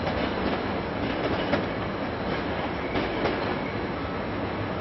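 Tobu 50090-series electric train approaching over pointwork: a steady running noise of wheels on rail, with a few sharp clicks as the wheels cross joints and points, one about a second and a half in and more around three seconds in.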